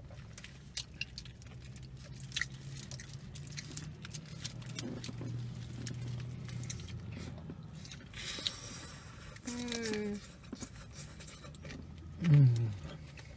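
Close-up chewing and biting of a chicken burrito and shrimp tacos, with many small wet mouth clicks. There is a brief rustle about two-thirds of the way through, short hums of a voice around ten seconds in, and a louder falling hum near the end.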